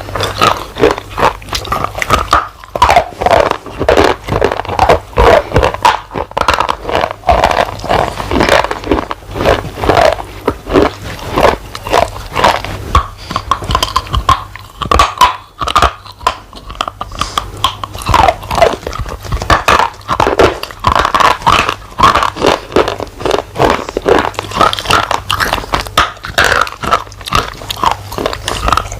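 Close-miked loud, dry crunching: a person biting and chewing a hard, brittle solid in quick, irregular crunches that run on throughout.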